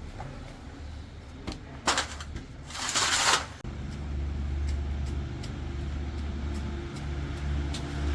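A few sharp metal knocks, then a short rushing burst about three seconds in, after which a low engine starts running steadily.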